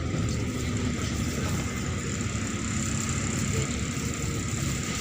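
Neman city bus driving, with a steady low rumble of engine and road noise heard inside the passenger cabin.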